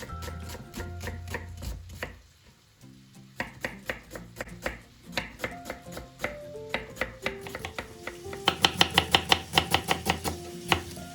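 Knife chopping on a cutting board: scattered cuts, then a fast run of about five chops a second a little past the middle, over soft background music.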